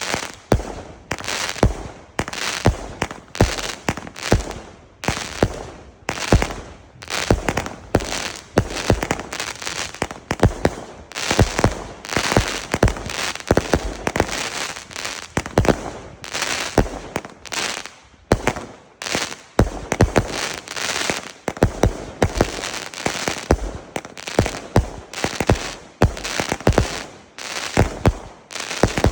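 A 20 mm, 100-shot firework battery (Bugano "Zeus") firing continuously: a rapid series of sharp shots and bursts, a few bangs a second, with crackling in between.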